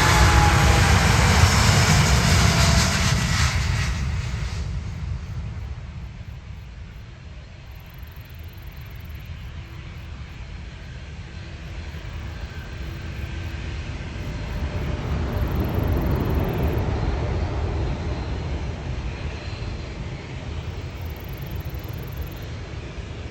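Jet airliner's engines passing close by, their whine falling in pitch before the noise fades, then swelling again more weakly and dying away.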